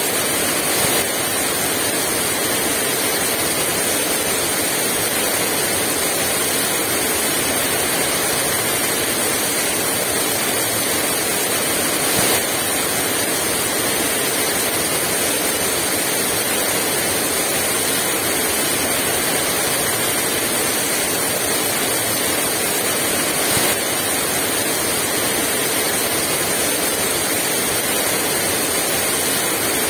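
Heavy rain pouring down steadily, an even hiss with no wind.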